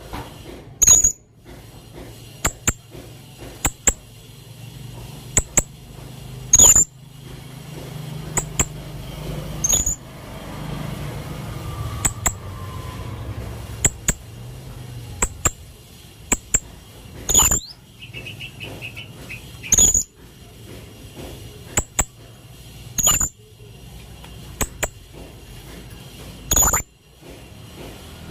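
Serindit (hanging parrot) calling: short, sharp, high-pitched squeaky notes, singly or in quick pairs, every one to three seconds, with a brief fast trill about two-thirds of the way through.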